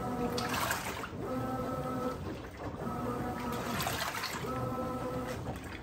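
Brastemp 17 kg top-loading washing machine agitating a load in water: the motor hums in strokes of about a second, and water sloshes between them.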